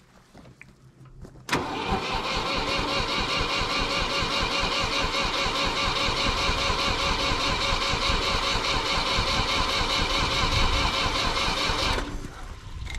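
1964 Ford 2000 tractor's gasoline engine started with the starter about a second and a half in, then running loud and steady with a fast pulsing beat. Near the end it drops to a quieter level.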